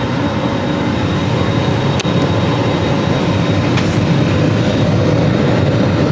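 Steady loud rumble and hiss of a moving vehicle heard from inside, with a single sharp click about two seconds in.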